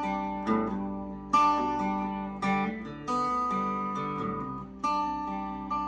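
Acoustic guitar strummed slowly, with chords struck about once a second and left to ring and fade between strokes.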